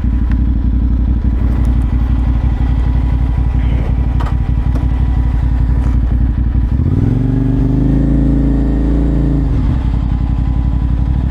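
CFMoto 450SR's parallel-twin engine running at low revs with a dense, fast beat, then revving up about two-thirds of the way in. The revs hold for a couple of seconds, drop off as if for a gear change, and climb again near the end.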